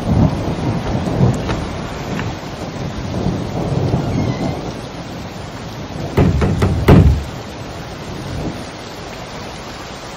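Thunderstorm: steady rain with rolling thunder, and two sharp thunderclaps about six and seven seconds in.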